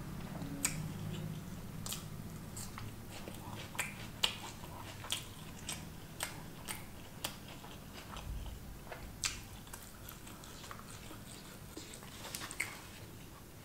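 A person chewing food with the mouth closed, close to the microphone: faint, irregular mouth clicks about once a second.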